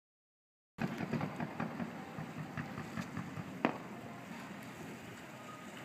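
Fireworks crackling: a rapid spatter of small pops, then one sharper bang a little past three seconds in, after which it dies down to a low hiss.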